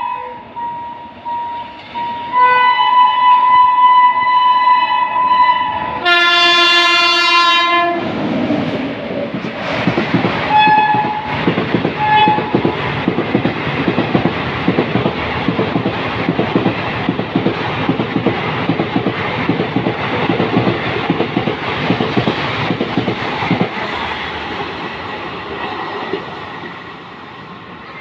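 Malda Town Express sounding its locomotive horn in long blasts as it approaches, with a louder, deeper blast about six seconds in and two short toots shortly after. The train then runs through with a steady rumble and rhythmic wheel clatter over the rail joints, fading as it goes away.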